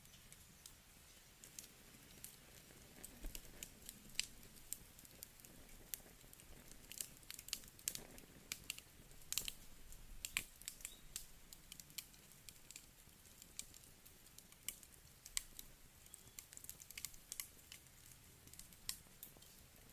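Wood campfire crackling quietly: irregular sharp pops and snaps of burning wood over a faint steady hiss.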